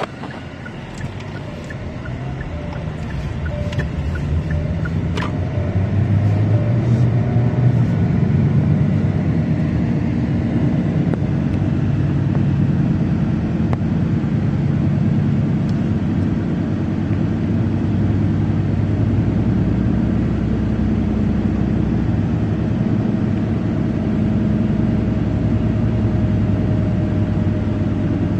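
Car engine running, its low drone building over the first several seconds and then holding steady.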